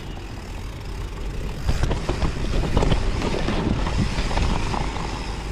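Wind rushing over the microphone with the clatter and knocks of a mountain bike riding a rough trail, busier and louder in the middle.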